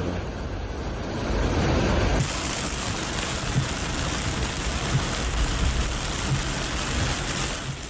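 Steady rushing noise of rain and water, with traffic sounds mixed in. The sound changes abruptly about two seconds in and is hissier after that.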